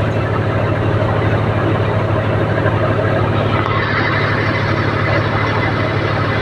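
John Deere 5050D tractor's three-cylinder diesel running steadily at about 1400 rpm, driving an NVT multicrop thresher through its PTO while it threshes chickpeas: a loud, even engine hum mixed with the thresher's rushing machine noise.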